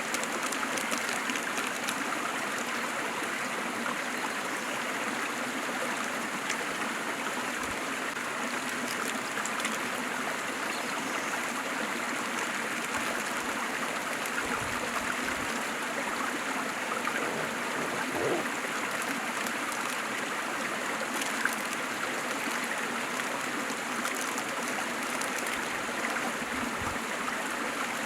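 Waterfall rushing steadily, a continuous even sound of falling water.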